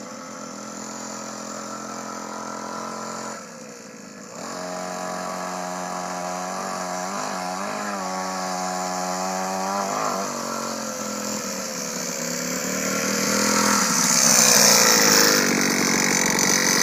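Small motorbike engine running and revving, dipping briefly about three and a half seconds in, with the pitch wavering up and down in the middle and the sound growing louder toward the end.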